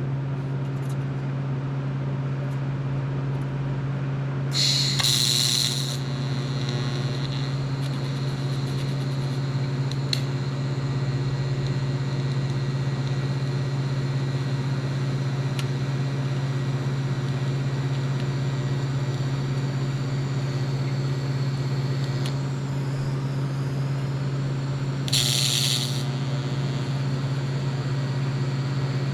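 Steady electrical or machine hum in a fabrication shop, with two short bursts of hiss: one about five seconds in and one near the end.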